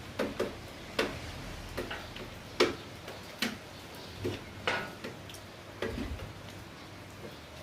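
Water dripping onto a hard surface during rain, making sharp, irregularly spaced knocks, a dozen or so, over a faint hiss of light rain.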